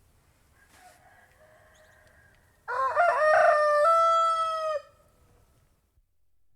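Domestic rooster crowing once, a loud cock-a-doodle-doo about two seconds long that starts near the middle, rising at the start and then held. A fainter call comes before it.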